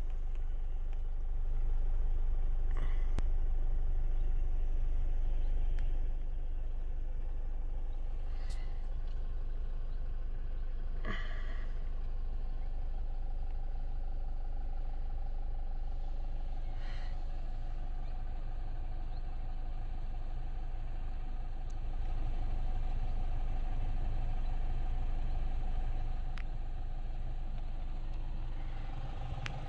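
Volkswagen Golf Mk5 2.0 FSI four-cylinder engine idling steadily, heard from inside the cabin as a low hum, with a few brief clicks scattered through.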